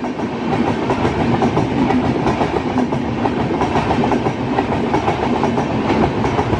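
Passenger train coaches running past at speed: a steady rolling roar with a rapid clatter of wheels over the rail joints.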